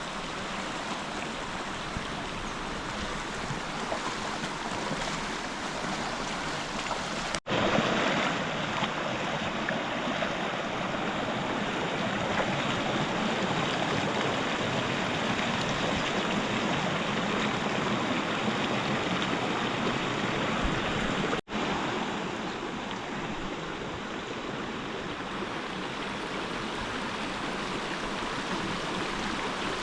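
River water flowing steadily. It cuts out for an instant twice, and the stretch between the two cuts is a little louder.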